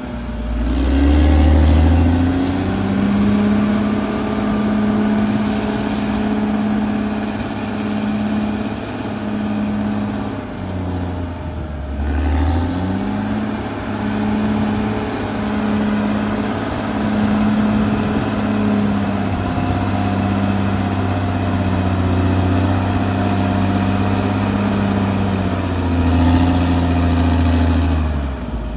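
Caterpillar D6R XL bulldozer's diesel engine working, its note dropping and picking up again a few times as the load changes, most clearly about ten to twelve seconds in and near the end.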